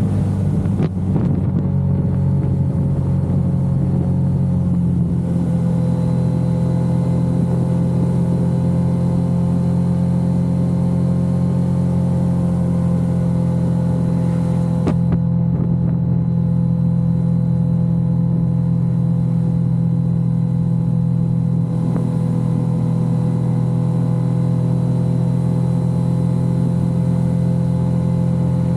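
Yamaha XSR900's inline-three engine running at steady cruising revs, with wind rush over the microphone. The engine pitch dips slightly in the first second, then holds nearly level, with a few faint clicks along the way.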